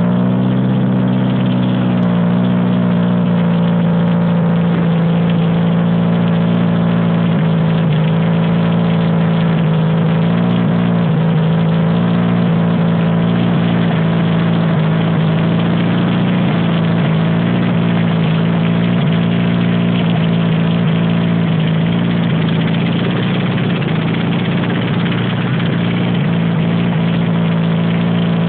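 Toyota Hilux engine running steadily at a fast idle, belt-driving a homemade air compressor on its first test run; it runs pretty well.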